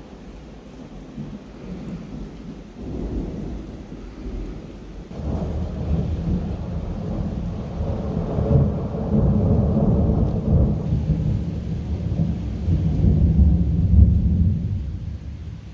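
Thunder rolling: a long low rumble that swells from about five seconds in, is loudest near the end and then fades, with steady rain in the background.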